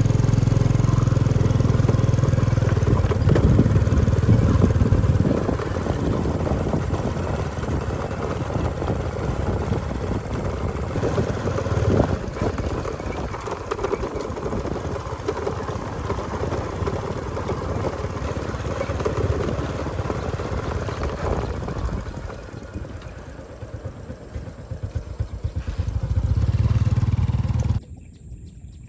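Motorbike engine running while riding, loudest in the first five seconds and again near the end, then cutting off suddenly about a second before the end.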